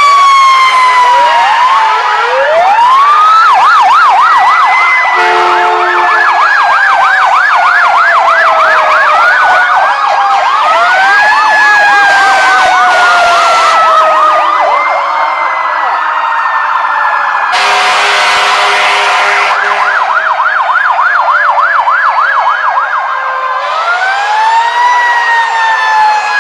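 Several fire truck sirens sounding at once: wailing sirens rising and then slowly falling in pitch, overlapped by a yelp siren going rapidly up and down. Loud horn blasts come in twice, about five seconds in and near the middle.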